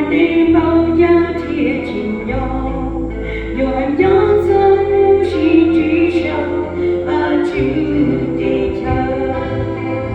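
A congregation singing a hymn together, with held notes over a low bass accompaniment that changes chord every few seconds.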